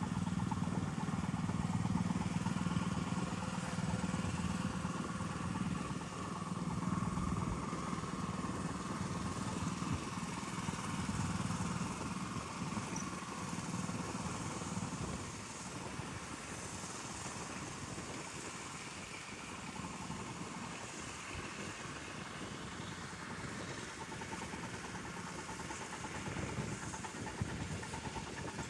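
7½-inch gauge ride-on miniature train running along the track: a steady low hum with rolling noise, getting a little quieter about halfway through.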